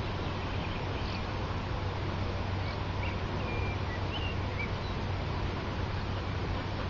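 Steady outdoor background noise with a low hum, and a few short, high bird chirps scattered through the middle.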